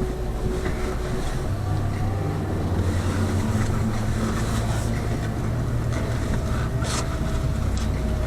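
Lada Vesta Cross with its 1.8 engine heard from inside the cabin while driving: a steady low engine drone over tyre and road noise, with a brief click about seven seconds in.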